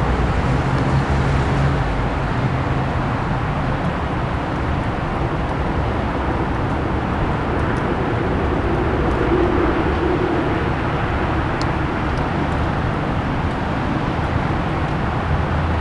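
Steady outdoor rumble and hiss like distant road traffic, swelling slightly about nine seconds in.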